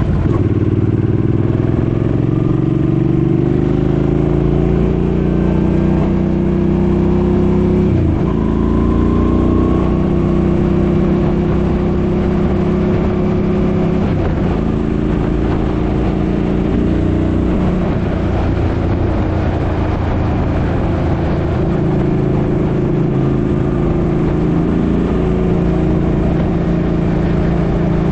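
Suzuki Boulevard M50's 805 cc V-twin engine under way, rising in pitch as the bike accelerates, with short breaks at gear changes about 8 and 14 seconds in, then running steadily at speed.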